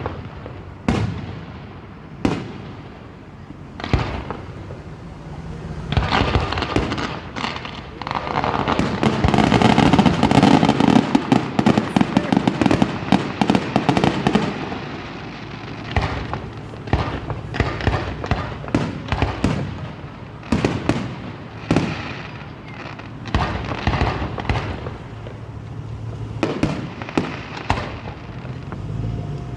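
Aerial fireworks going off: sharp bangs at irregular intervals, with a dense barrage of rapid crackling pops from about six to fifteen seconds in, the loudest stretch, then single bangs again.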